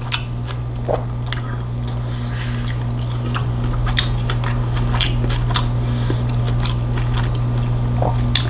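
Close-up mouth sounds of a person chewing a salmon taco in a soft tortilla: many short wet clicks and smacks. A steady low hum runs underneath.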